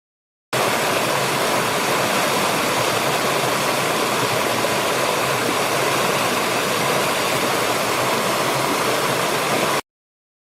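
Steady rushing water noise, an even hiss with no rhythm or pitch. It starts abruptly about half a second in and cuts off suddenly near the end.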